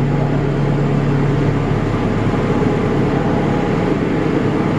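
An engine running steadily: an even, low, pitched hum.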